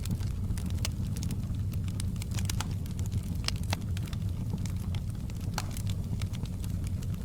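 Fireplace crackling: irregular sharp snaps and pops, several a second, over a steady low rumble of the burning fire.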